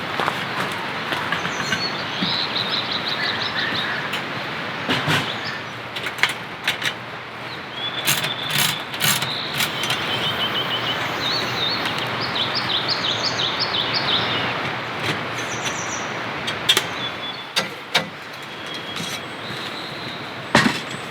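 Steady rain with scattered sharp drips and taps, and a bird trilling twice: a short burst of chirps a couple of seconds in, then a longer run of chirps in the middle.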